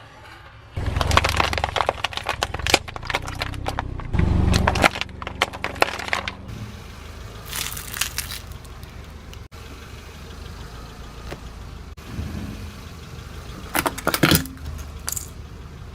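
Car tyre rolling over and crushing brittle objects: a dense run of sharp crackling and snapping over the car's low rumble. Then quieter stretches broken by two shorter bursts of cracking later on.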